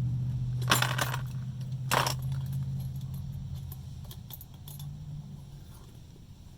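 Small metal objects clinking and jingling in two bursts, about a second in and again at two seconds, with a few faint clicks later. A low engine-like hum underneath fades away.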